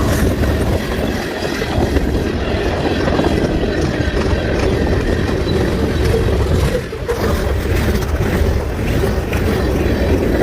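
CN (Canadian National) train running on the rails: a loud, steady rumble of wheels and rail noise, with a brief dip about seven seconds in.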